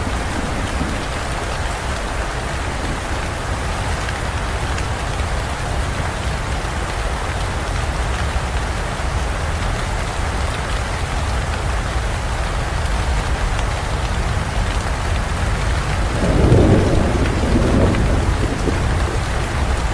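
Heavy rain falling steadily, with a low rumble of thunder underneath that swells louder about three-quarters of the way through.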